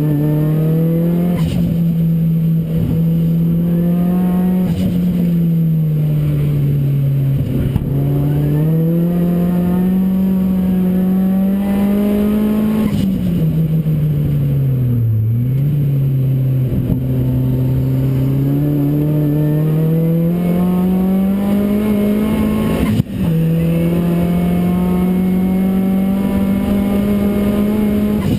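Modified Focus RS engine in a Ford Racing Puma running hard on track, its note climbing slowly and dropping back several times as the revs rise and fall. There is a sharp click about 23 seconds in.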